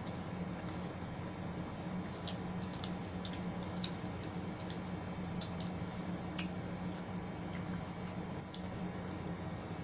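Close-up eating sounds: wet, squishy chewing with scattered sharp mouth clicks, over a steady low hum.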